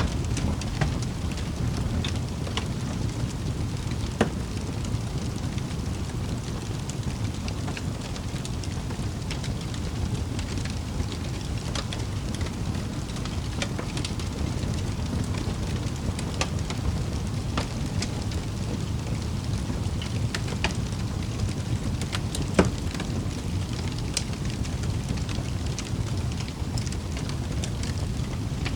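Wood fire crackling in a fireplace: a steady low rumble of burning with scattered sharp snaps and pops. A louder pop comes about four seconds in, and the loudest about three-quarters of the way through.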